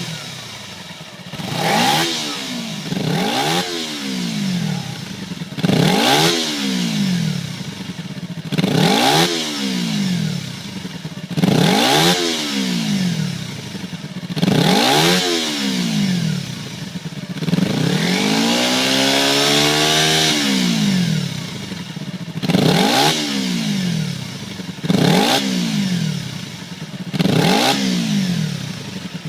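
Kawasaki Ninja 250 parallel-twin engine breathing through a titanium slip-on silencer, blipped repeatedly from idle: each rev rises quickly and drops straight back, one every two to three seconds. About two-thirds of the way through, one rev is held longer before it falls back.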